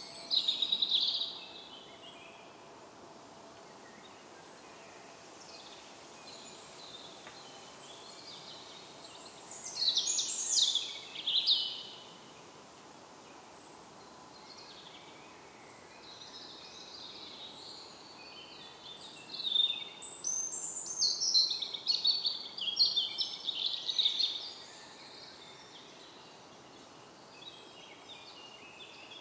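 Songbirds singing in woodland: a loud, high-pitched song phrase right at the start, another about ten seconds in, and a longer run of song from about twenty to twenty-four seconds, with fainter birdsong and a steady hiss of background noise in between.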